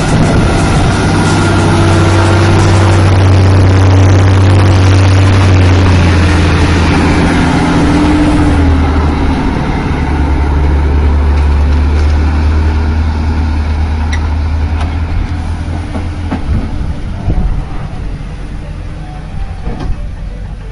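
Heavy vehicle engine running with a loud low drone that shifts down in pitch about six and again about nine seconds in, easing off near the end.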